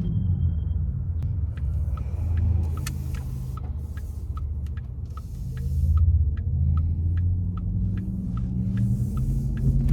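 Porsche Taycan cabin with steady low road and tyre rumble while driving. From about a second and a half in, evenly spaced ticking of the turn indicator comes in, about two and a half ticks a second. A faint whine rises near the end.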